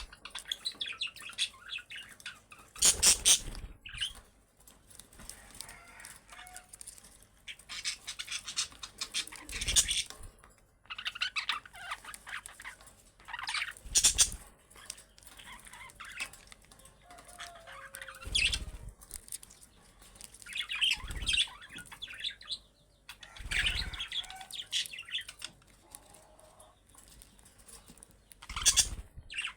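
Budgerigars chirping and chattering in irregular bursts, with a few louder full-range bursts spread through.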